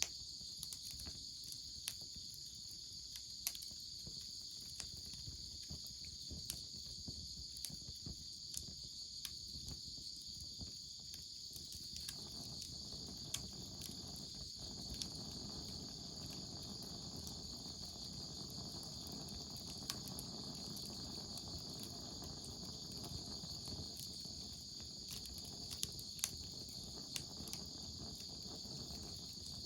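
Wood fire crackling with scattered sharp pops, over a steady high-pitched insect chorus. A low rushing sound joins about twelve seconds in.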